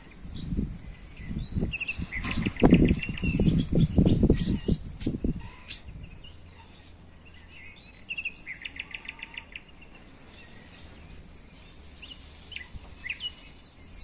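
A songbird singing: a short fast trill about two seconds in and another about eight seconds in, with a few single chirps near the end. Low thumps and rumble during the first five seconds are louder than the birdsong.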